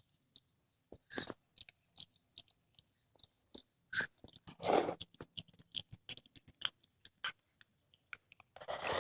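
Cat chewing and crunching on a squirrel it has caught: irregular crunching bites, with louder bursts about a second in, around four to five seconds, and near the end.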